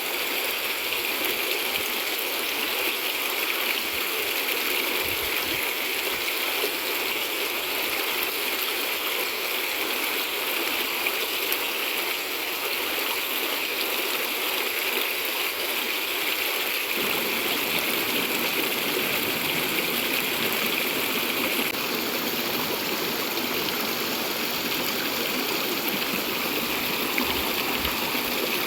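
Clear river water running over rocks: a steady rushing babble that grows a little fuller in its lower range about two-thirds of the way through.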